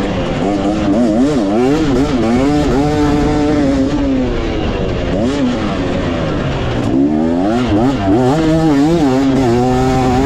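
Dirt bike engine on a motocross track, revving up and down again and again as the throttle is worked, with a lull and drop in pitch about halfway through before it picks back up. Wind rumble on the microphone.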